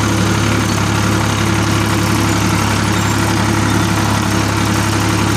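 Ford 3600 tractor engine running at a steady, unchanging speed.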